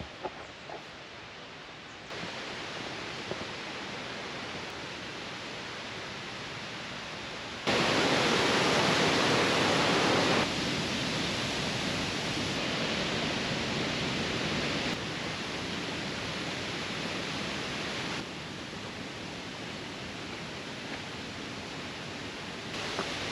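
Steady rushing of a mountain stream's flowing water. It jumps louder or softer several times and is loudest for a few seconds in the middle.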